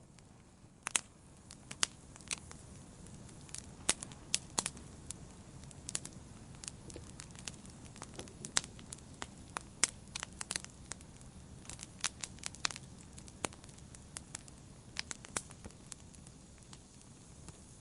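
Campfire burning, wood crackling and popping in sharp irregular snaps over a low steady hiss of the flames.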